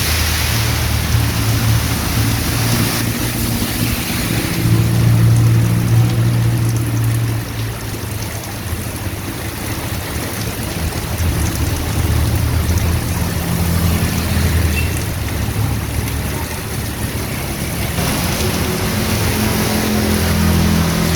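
Heavy rain falling steadily, with a motor vehicle's engine running underneath as a low hum that rises and falls in pitch and loudness.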